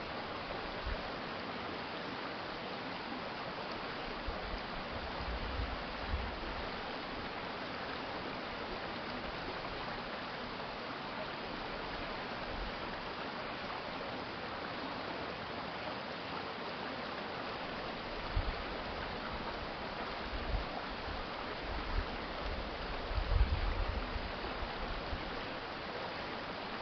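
Steady rushing of a city stream, an even hiss of flowing water. A few short low bumps come and go, the strongest about 23 seconds in.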